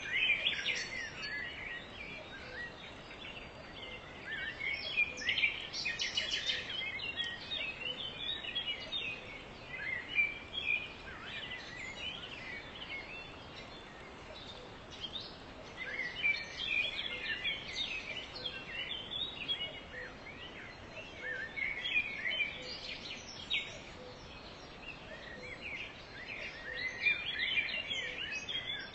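Several small songbirds chirping and twittering in bouts of quick, high notes every few seconds, over a steady background hiss.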